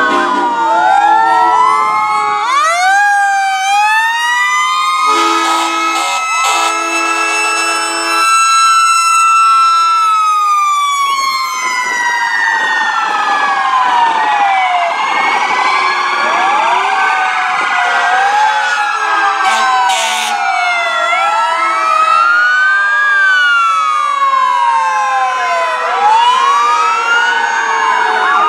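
Several fire truck sirens sounding at once, their rising and falling wails and yelps overlapping. There are repeated steady horn blasts a few seconds in.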